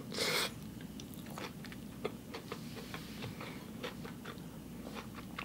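Close-miked eating: a short noisy bite right at the start, then soft, irregular mouth clicks of chewing.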